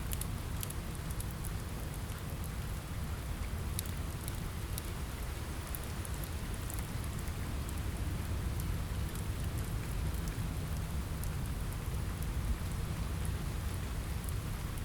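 Steady rain on a window with a low rumble underneath, and scattered sharp crackles and pops from a wood fire.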